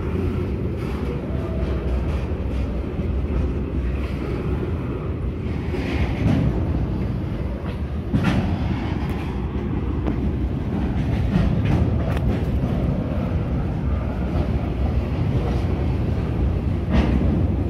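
Freight train of covered hopper wagons rolling past: a steady low rumble of steel wheels on rail, with sharp clacks as wheelsets cross rail joints, most prominent about eight seconds in and again near the end.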